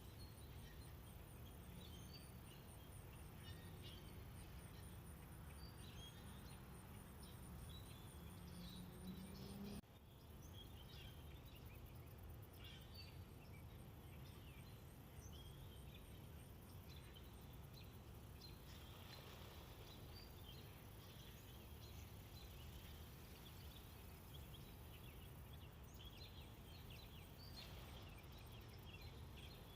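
Faint outdoor ambience: small birds chirping and calling in short, scattered notes over a steady low rumble, with a high, rapid pulsing through the first ten seconds. The sound breaks off abruptly about ten seconds in and resumes with the same chirping.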